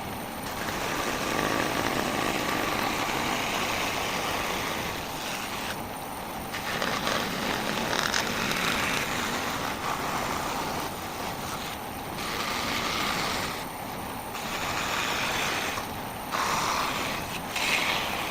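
A power saw running and cutting wood, a steady noisy whirr with several short breaks where the cutting sound drops away briefly.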